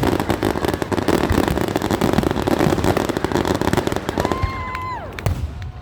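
Fireworks display: dense, rapid crackling with low thumps that thins out after about four seconds. As it thins, a steady whistling tone holds for about a second, then slides down.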